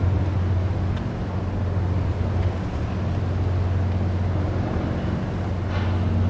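A passing ferry's engines make a steady low drone under a light haze of water and wind noise.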